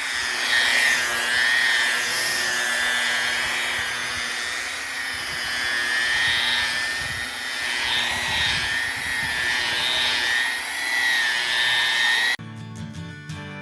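High-speed electric power tool running with a steady high whine that wavers up and down in pitch as it works the wood. It cuts off suddenly near the end, giving way to guitar music.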